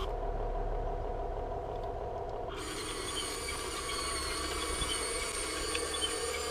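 Electric motors and metal gearing of a Huina 1580 RC excavator running with a steady multi-tone whine; its actuators are servo- and motor-driven, with no hydraulics.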